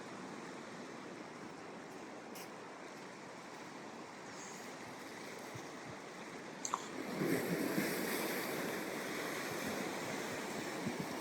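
Ocean surf breaking and washing up a sandy beach, a steady rushing noise. A louder wave surges in about two-thirds of the way through.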